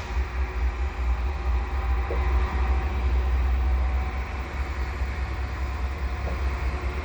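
Two GE AC4400CWM diesel locomotives running slowly, with a steady deep engine rumble and a faint hum.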